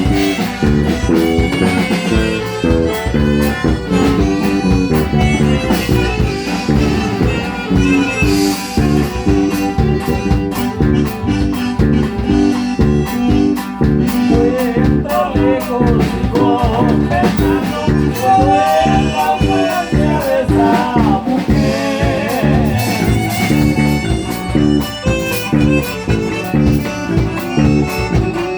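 Norteño group playing an instrumental passage: an accordion melody over strummed bajo sexto and bass keeping a steady, bouncing beat.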